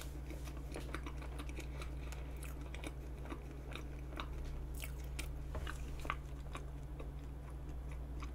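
Close-miked chewing of soft vanilla pound cake, with many small wet mouth clicks scattered throughout.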